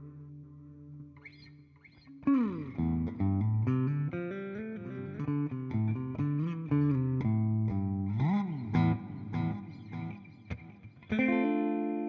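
Electric guitar, a Fender Jazzmaster Modern Player, played through a TC Electronic Flashback delay pedal and a simulated Fender '65 Twin Reverb amp. A held chord fades away, then a downward slide about two seconds in leads into a run of single notes. A note bends up and back down a little past the middle, and a fresh chord is struck near the end.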